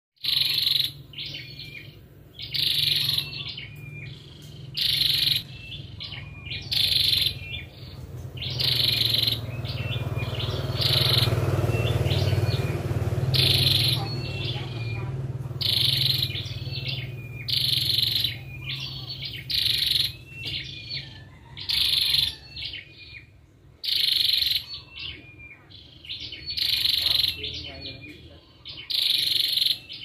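Short, high bird calls repeated at an even rhythm about every two seconds, over a steady low hum. A rushing noise swells in the middle and fades out again.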